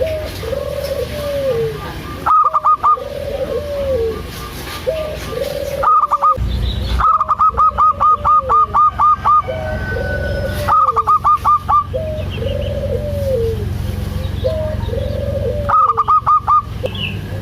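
Zebra doves (perkutut) cooing: arched coos repeat about once a second, broken several times by quick runs of higher, evenly spaced notes. A steady low rumble runs underneath.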